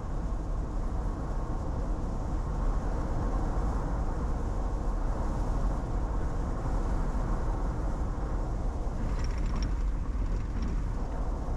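Steady road and tyre noise with engine hum inside a moving car's cabin at highway speed.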